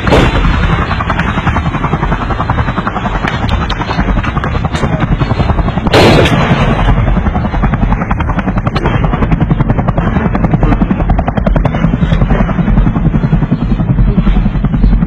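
Steady, rapid rhythmic chopping throb of a low-flying aircraft, loud with a heavy low rumble. One sharp bang sounds about six seconds in.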